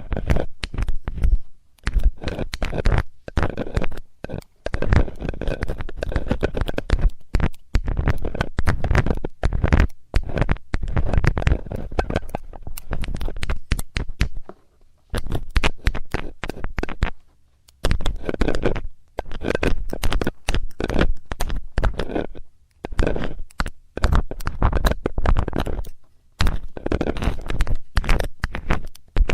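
Metal ear-cleaning tool scraping and scratching close to the microphone: dense crackly rasps with deep rumbling thumps, in runs of a second or two with brief pauses between.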